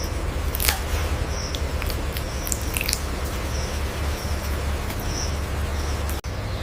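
A parrot's scattered sharp clicks and a few brief high chirps over a steady low hum and hiss, with a momentary dropout near the end.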